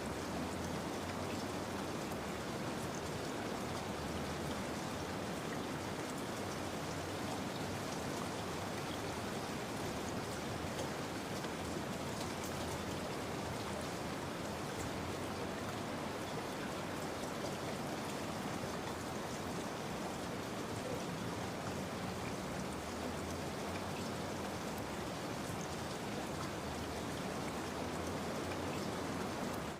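Steady rain: an even hiss with scattered droplet ticks.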